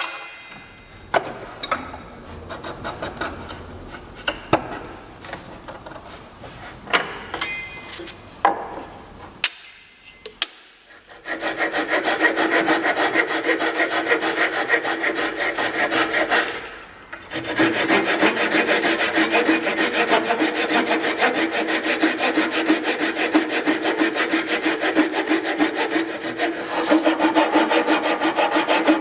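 Power tool working white oak: a dense rubbing, rasping noise over a steady motor tone starts about eleven seconds in and pauses briefly around seventeen seconds. Before it come scattered knocks of wood being handled.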